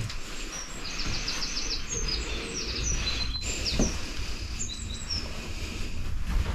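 Small songbird singing, a run of quick high chirps and short rapid trills, over a steady low rumble.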